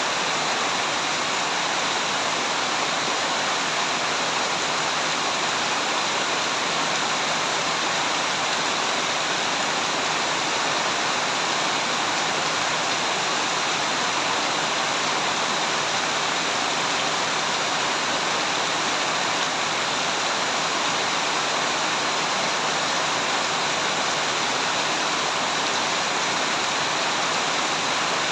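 Heavy rain falling steadily as a dense, even hiss with no individual drops standing out.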